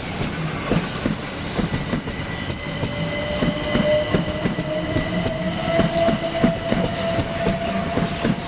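Class 375 Electrostar electric multiple unit running past, its wheels clicking rapidly over rail joints. From about three seconds in, a steady whine comes in and creeps slightly upward in pitch.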